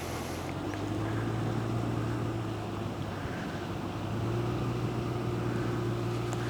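Supercharged LSA V8 of an HSV running at low, steady revs as the car moves slowly on soft beach sand, the engine note rising a little about four seconds in.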